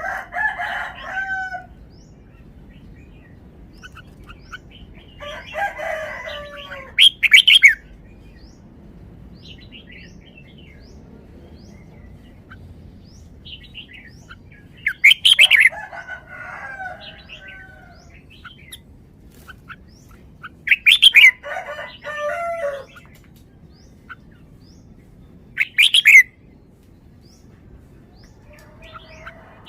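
Red-whiskered bulbul singing: short, quick warbling song phrases that come in loud bursts every five or six seconds, with faint chirps in between.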